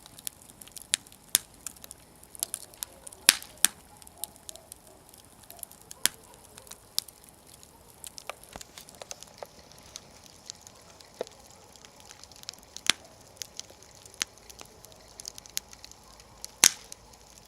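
Wood campfire burning, with irregular sharp crackles and pops; several louder snaps stand out from the quieter crackling.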